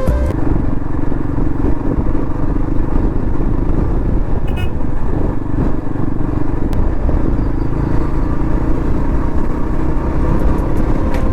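Motorcycle running steadily at road speed, its engine drone mixed with loud wind rush on the rider's microphone.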